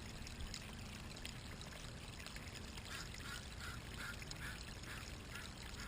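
Faint, steady running water from a storm drain outfall pipe. From about halfway through, a run of about seven short, evenly spaced call-like notes joins in.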